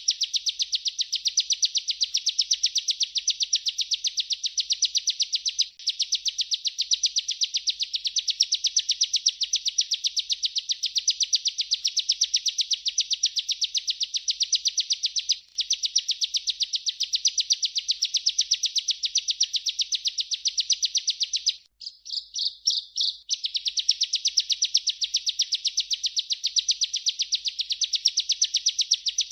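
Ciblek (bar-winged prinia) singing its rolling 'ngerol' song: a long, rapid, even trill of high notes. It breaks off briefly about 6 and 15 seconds in, and around 22 seconds it turns into a few separate stuttered notes before the trill resumes.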